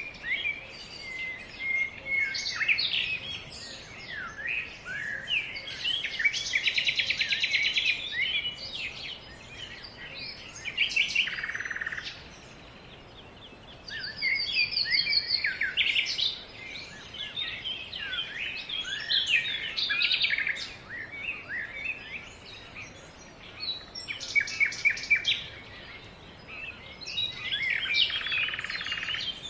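Songbirds singing, a dense chorus of overlapping chirps, whistles and rapid trills, with several birds calling at once.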